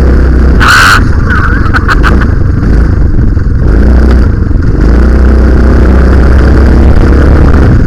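Minibike's cheap Honda-clone single-cylinder engine running and revving up and down as it drives through a go-kart torque converter (CVT), with heavy wind rumble on the microphone. There is a short sharp noise about a second in.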